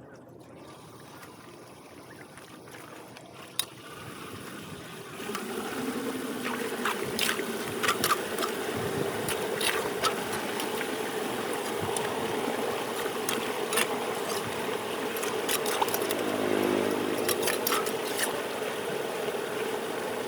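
An engine running steadily. It gets louder about five seconds in, with scattered clicks and knocks over it.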